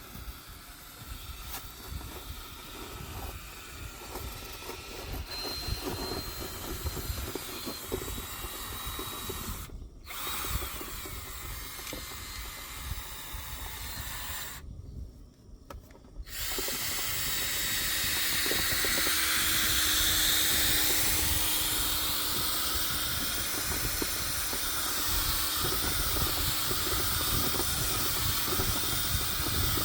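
A drill spinning dryer-vent cleaning rods and brush through the vent duct, broken by two short gaps. About sixteen seconds in, a louder steady rushing noise with a low steady hum takes over.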